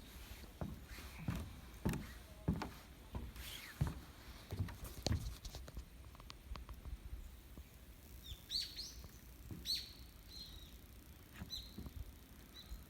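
Footsteps at a steady walking pace for the first five seconds or so. From about eight seconds in, a bird gives several short, high chirps.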